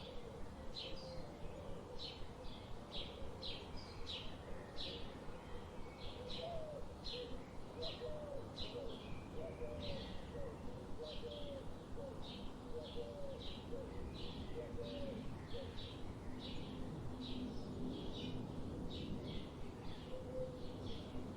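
Forest birds calling: a short high chirp repeated about twice a second throughout, and a lower, hooked call note repeated about once a second through the middle, over a steady low rumble of background noise.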